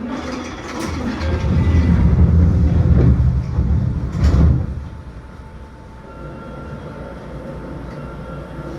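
Seibu New 2000 series electric train heard from inside the car: a loud low rumble for about three seconds, then quieter running with a faint steady whine.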